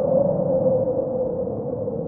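Wind blowing steadily, with a hollow howl near one pitch that sinks slowly.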